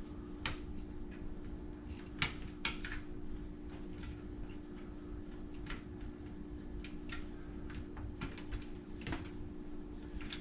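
Scattered clicks and knocks from parts of a dishwasher's control panel being handled and worked apart by hand, the sharpest pair about two seconds in. A steady low hum runs underneath.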